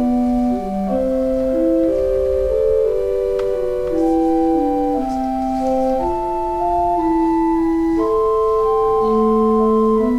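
Church organ playing a slow piece in several parts, with steady held notes that move from chord to chord every second or so.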